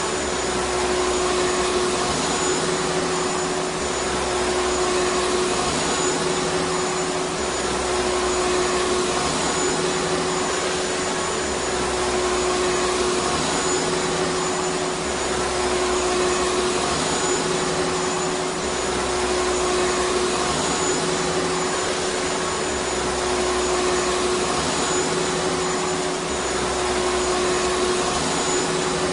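Vacuum cleaner running continuously: rushing air with a steady motor whine, loud and even, and a low hum that swells and fades every few seconds.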